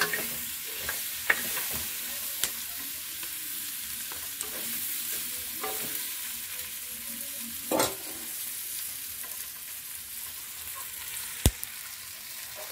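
Meat sizzling as it fries in a cast-iron pot, stirred with a metal spoon, with a few sharp clicks and knocks scattered through, one especially sharp near the end.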